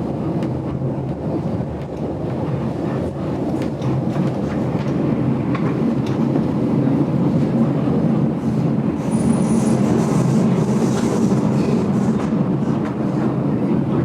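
GoldenPass Belle Époque passenger train running, heard from inside the carriage: a steady rumble of wheels on the track with faint scattered clicks over the rail joints. A short, thin, high squeal comes about nine seconds in.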